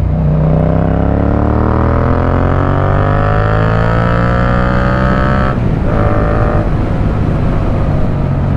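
Yamaha MT-07's parallel-twin engine through an Akrapovic carbon full exhaust, accelerating in gear with its pitch rising steadily for about five seconds. A brief break at a gear change, then it pulls again at a lower pitch and eases off under a steady low rumble.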